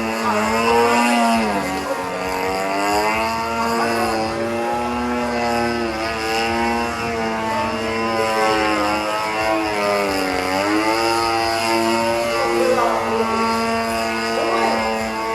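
The 26cc two-stroke gasoline engine and propeller of an RC aerobatic airplane running in flight. Its pitch rises and falls as the plane manoeuvres and passes, dropping sharply about a second and a half in and again around ten seconds in.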